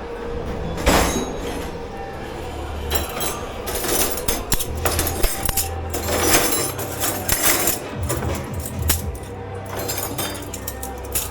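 Crockery, glassware and cutlery clinking and knocking as dishes are handled and stacked in a commercial kitchen dish pit, with a steady low hum underneath.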